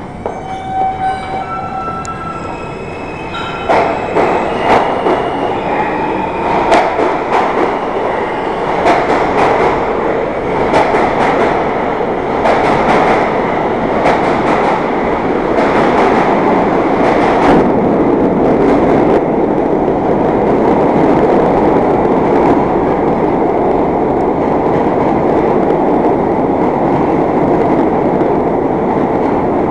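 New York City subway train running through the station. A few short tones step up in pitch over the first three seconds. Then the wheels clack steadily over rail joints, and after about 18 seconds the sound settles into a steady rumble.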